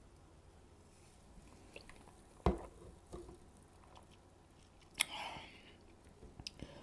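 Faint close-up mouth sounds of someone chewing a burger slider with her mouth closed. There are a few wet clicks and smacks, the sharpest about two and a half and five seconds in.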